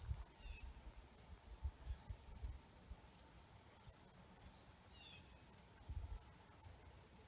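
Faint insects chirping: a steady high trill with a shorter chirp repeating about every 0.6 seconds. Occasional soft low thumps sound underneath.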